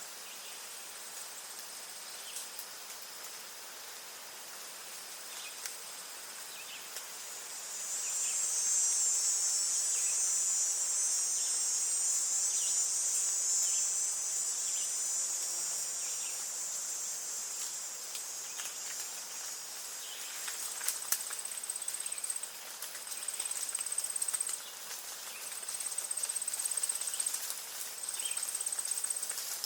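Insects trilling in a high, continuous buzz that swells louder about eight seconds in. Later it breaks into repeated pulses of about two seconds each. Short, faint bird chirps are scattered through it.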